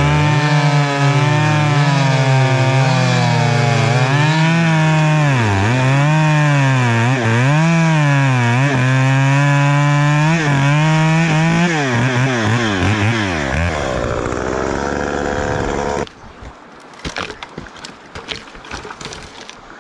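Two-stroke chainsaw cutting through a downed log while clearing trail: the engine pitch sags again and again as the chain bites into the wood, then climbs back. Near the end the saw drops to a lower speed, and the sound cuts off abruptly, leaving faint knocks and rustling.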